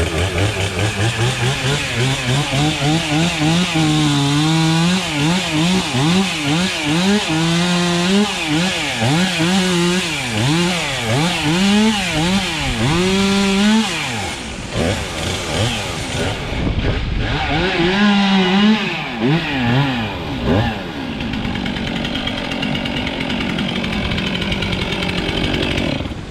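Chainsaw cutting storm-fallen trees, its engine revving high and bogging down again and again as the chain works through the wood. It pauses past the middle, cuts briefly again, then stops, leaving a steady rushing noise.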